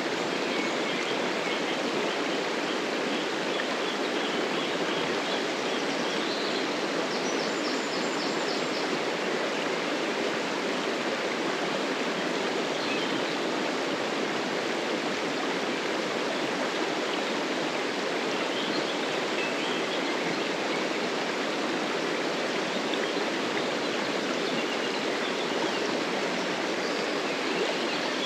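Stream water running steadily with an even rushing sound, with a few faint high chirps now and then.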